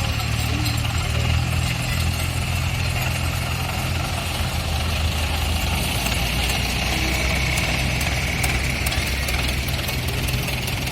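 Tractor engine idling steadily with a low, even drone.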